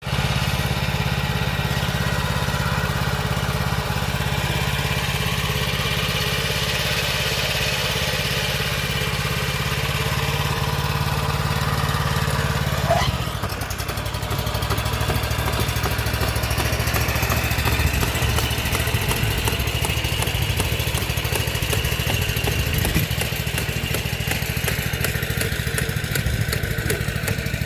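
Small engine of a Maxxi PF48 rice transplanter running steadily. About halfway through there is a brief knock, and the engine's sound changes to a rougher, more broken beat.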